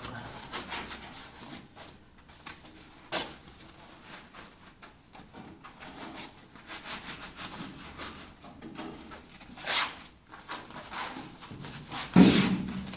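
Scattered knocks and rustling from handling work, with a louder thump near the end.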